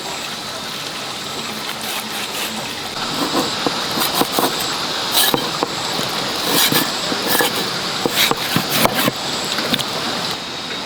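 A knife slicing pork on a cutting board: irregular sharp knocks and taps over a steady background hiss, the knocks starting about three seconds in.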